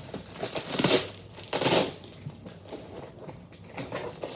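Packaging being handled while a box is opened: crinkling and rustling, with two louder bursts about a second in and just under two seconds in.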